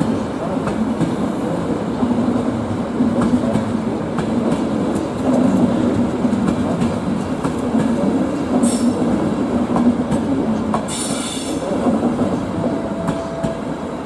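Train rolling through a station: a steady rumble of wheels on the rails with faint clicks, and two brief high squeals from the wheels about two-thirds of the way in.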